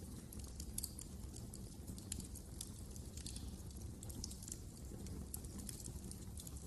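Wood fire in a fireplace crackling, with many small irregular pops and snaps over a low steady rumble.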